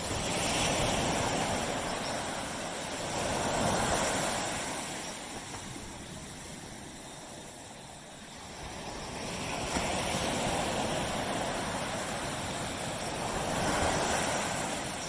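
Surf on a tropical beach: waves breaking and washing up the shore, the rushing sound swelling and fading about four times.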